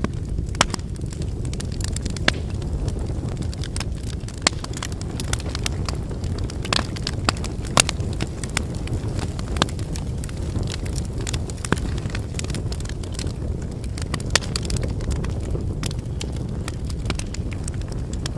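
Wood campfire burning: a steady low rumble of flames with frequent sharp crackles and pops from the burning firewood, a few louder pops standing out.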